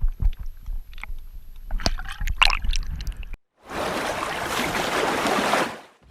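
Water splashing and sloshing, with low rumbling and scattered knocks, for the first three seconds or so. After an abrupt cut comes a steady rushing noise that fades out near the end.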